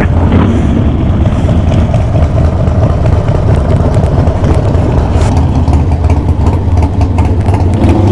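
Harley-Davidson Sportster V-twin engine running steadily at low revs, a deep, even rumble.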